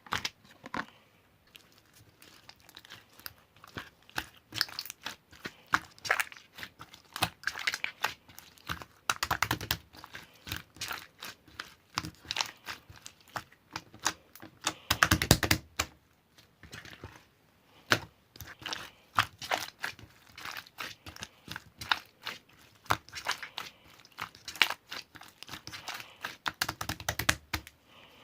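Irregular crinkling and clicking handling noises, with louder crackly spells about nine and fifteen seconds in.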